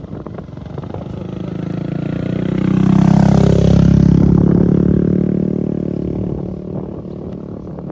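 A motorbike passes close by: its engine grows louder to a peak about three to four seconds in, drops in pitch as it goes past, then fades away.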